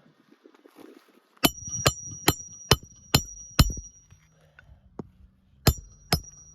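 Hammer driving a roofing nail into an asphalt shingle: six quick strikes about two a second, each ringing with a high metallic tone, then a short pause and two more strikes near the end.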